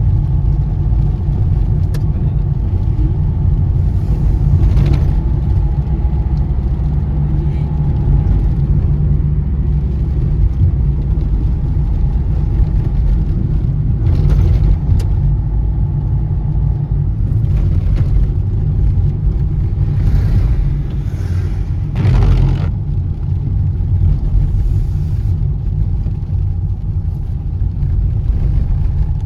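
Car driving along a road: steady low engine and tyre rumble, with a few brief louder swishes about 4, 14 and 21 seconds in.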